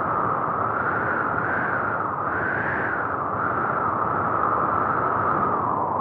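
Steady rushing noise of a car driving in a snowstorm, road and wind noise together, with a band in the sound that slowly wavers up and down in pitch.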